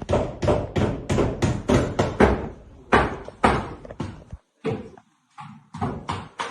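Hammer blows in quick succession, about three a second, typical of nailing stone-coated metal roof tiles, with a short break about four seconds in before the blows resume.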